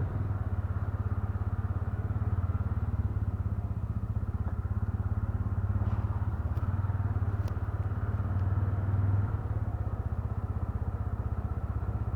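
Motorcycle engine running steadily under way, picked up by a helmet-mounted microphone as a low, fast throb. It swells a little about nine seconds in, then settles back.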